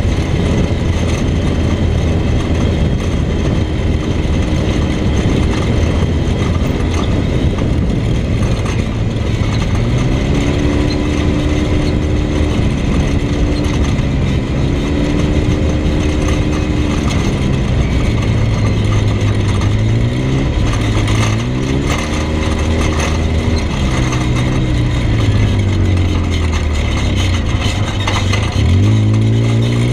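Vehicle engine pulling the vehicle along a dirt track, with a steady rushing noise underneath. For the first third the engine note is low and steady. After that it climbs and drops several times as the throttle and gears change, with a sharp rise near the end.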